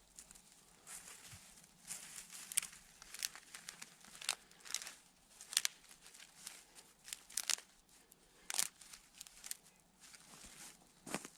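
Irregular rustling and crinkling with a few sharp clicks, as of something being handled.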